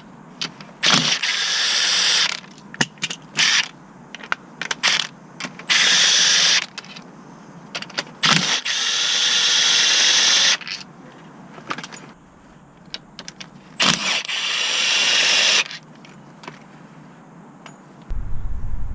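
Cordless power tool run on bolts in four bursts of one to two seconds, with clicks and knocks of tools and parts between.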